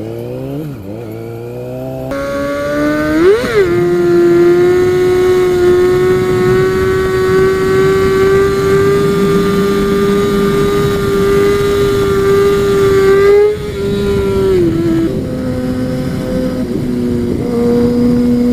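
2009 Kawasaki ZX6R's inline-four engine pulling away under acceleration, its pitch climbing, with a brief sharp rev spike about three and a half seconds in. It then holds a steady high-pitched note at cruising revs, drops about thirteen seconds in, and settles on a lower steady note.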